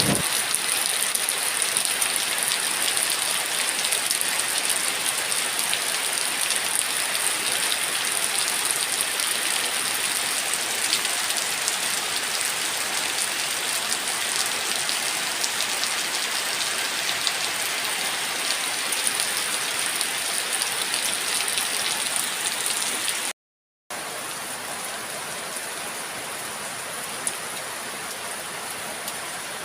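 Steady heavy rain falling, a dense even hiss. About 23 seconds in it cuts out for half a second, then goes on a little quieter.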